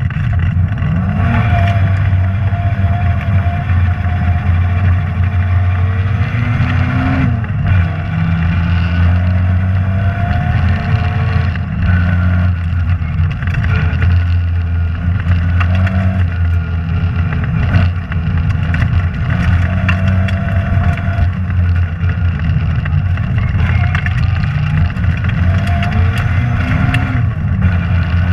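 Rally car engine heard from inside the car at full stage speed, running loud and continuously, its pitch climbing and dropping again and again as the driver accelerates and lifts.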